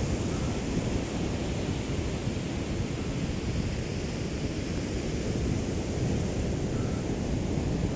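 Small waves of a calm sea lapping steadily on the shore, with a light wind rumbling on the microphone.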